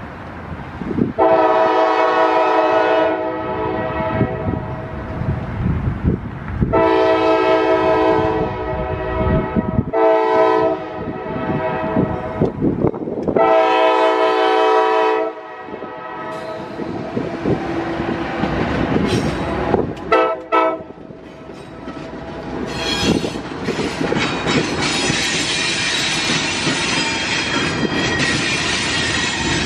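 Freight locomotive's multi-chime air horn blowing the grade-crossing signal: long, long, short, long, then two quick toots about twenty seconds in. After that the train passes close by, with the freight cars' wheels clicking over the rail joints.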